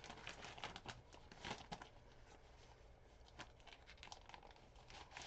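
Faint rustling and light taps of paper cards and envelopes being handled.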